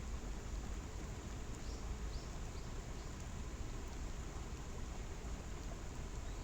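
Waterfall in the rain: a steady rush of falling water, heaviest in the low end. A few faint high chirps come through about two seconds in.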